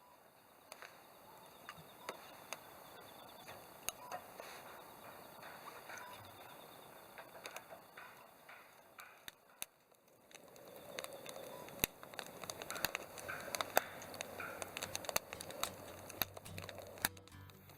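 Campfire crackling: irregular sharp pops and snaps over a soft hiss, growing busier and louder about halfway through.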